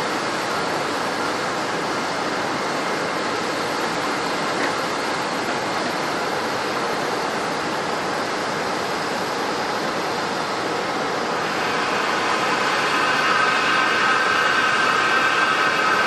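Jet airliner engines: a steady loud rushing noise, joined about two-thirds of the way in by a whine of several steady tones that grows louder.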